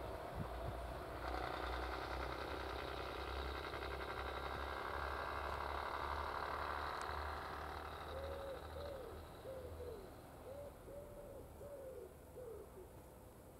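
A BR Class 115 diesel multiple unit running away from the listener, its engine and wheel noise fading over the first half. Then a pigeon coos about eight short rising-and-falling notes near the end.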